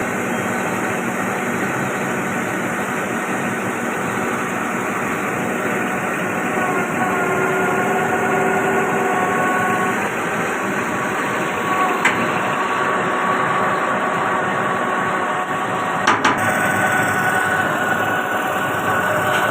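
KCP 56 concrete pump running: a steady engine and hydraulic drone whose pitch steps a few times, with a short knock about two-thirds of the way in and another pair of knocks a little later.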